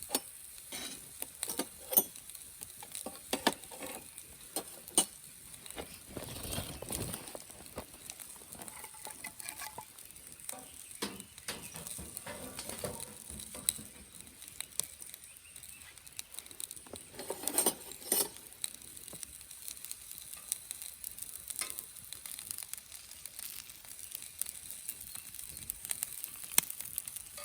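Sausages sizzling in a Nanbu cast-iron pan over a wood fire, with frequent sharp pops and crackles.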